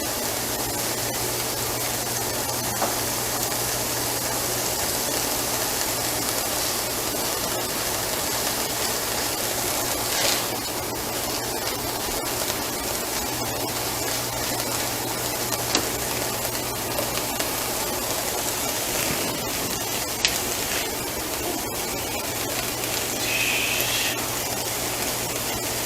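Chopped onions and garlic sizzling in oil in a frying pan: a steady hiss, with a few light clicks from stirring.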